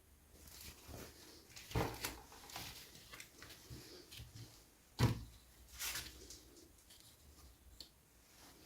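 Hands unboxing small plastic toys: scattered clicks, light rustling and tapping, with two sharper knocks about two and five seconds in.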